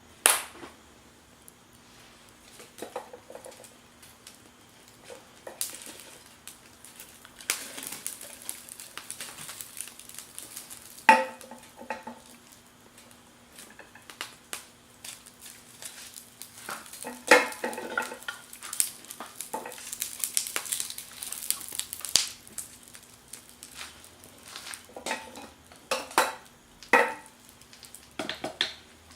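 Metal utensils clinking and scraping against cookware: several sharp clinks, a few of which ring briefly, and longer stretches of scraping and stirring, over a faint steady hum.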